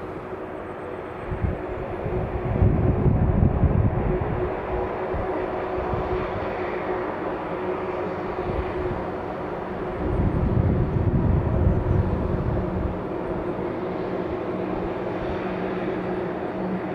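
Jet engines of a Lufthansa Airbus A319 airliner, a steady loud drone with a faint held hum. A deep rumble swells about two seconds in and again about ten seconds in.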